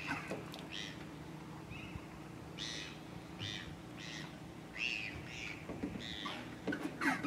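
Birds calling: a series of short, high calls at irregular intervals, over a faint steady low hum.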